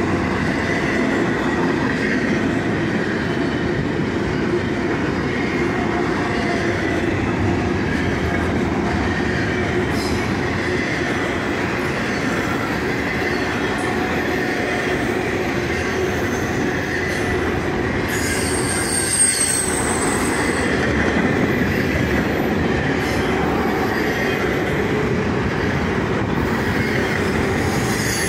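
CSX intermodal freight train's container and trailer flatcars rolling past: a steady, loud rumble and rattle of steel wheels on the rails. A high wheel squeal rises out of it for a couple of seconds about two-thirds of the way through.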